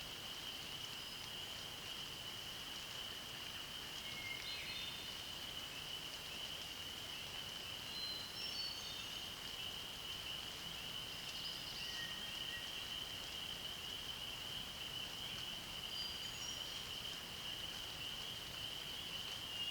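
A steady, unbroken high-pitched trilling chorus holding one pitch throughout. Scattered short bird song notes, some falling in pitch, are heard over it about four seconds in, around eight to nine seconds in, and again later.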